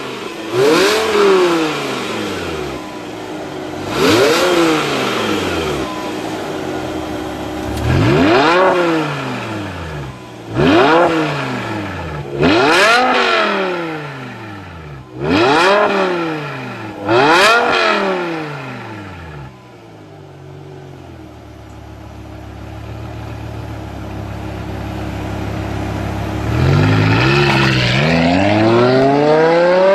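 BMW M6 engine through an iPE valved exhaust system, revved in about seven sharp throttle blips, each rising quickly and falling back. It then runs at a steady low idle for several seconds, and near the end a long, steadily rising rev builds.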